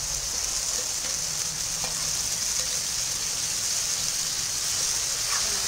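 Tomato puree sizzling steadily as it goes into hot oil and frying onion-garlic-ginger paste in a steel kadhai, with a few faint ticks of the spoon against the pan.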